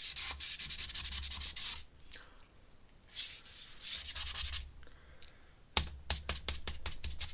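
Ink pen scratching across sketchbook paper in three bursts of quick back-and-forth strokes, like hatching. The last burst has sharper separate ticks.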